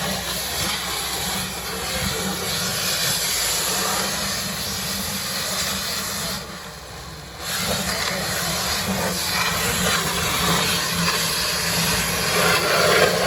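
Steady machinery noise, a hiss over a low hum, that drops away for about a second just past the middle and then comes back.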